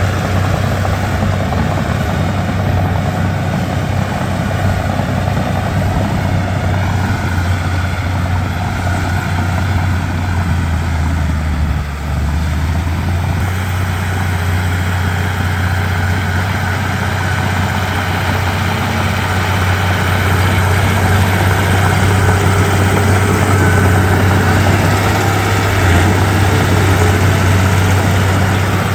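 Komatsu D31P bulldozer's diesel engine running steadily under work, with a strong low hum. It dips briefly near the middle and gets a little louder toward the end.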